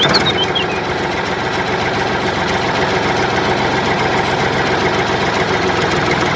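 A small motor running steadily with a fast, even rattle, typical of a miniature DIY tractor's drive.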